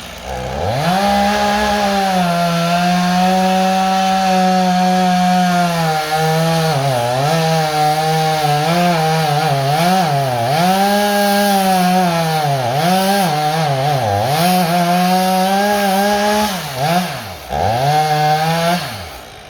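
Chainsaw revving to full throttle and cutting wood, its engine pitch dipping again and again as the chain works through the cut. Near the end it drops off, revs up once more, then falls back.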